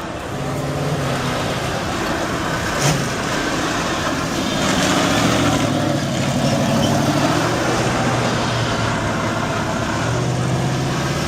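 A vehicle engine running steadily with a low hum, and a sharp click about three seconds in.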